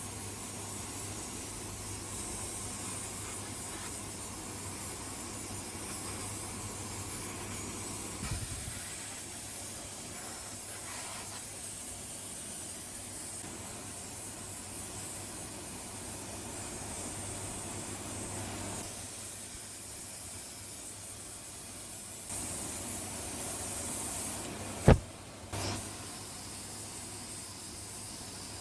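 Steady hissing noise over a faint low hum, with one sharp knock near the end.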